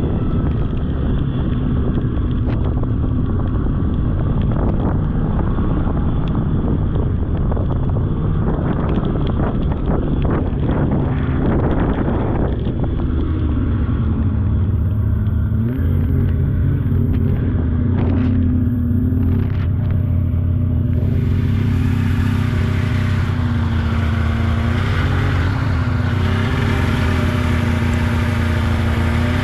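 Polaris snowmobile engine running under way, with wind noise on the microphone. From about halfway the engine note stands out more clearly and rises and falls a little with the throttle.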